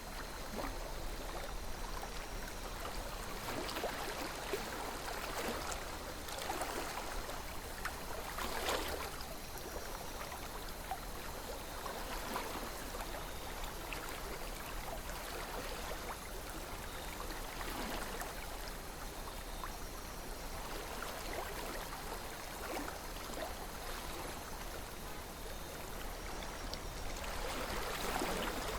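River water flowing steadily, with small irregular splashes and gurgles.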